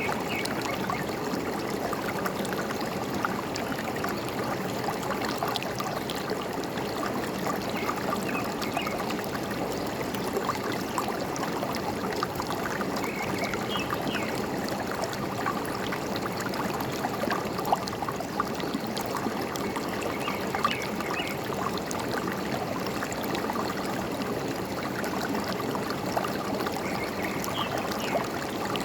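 Forest stream babbling and trickling steadily, with a few faint bird chirps now and then.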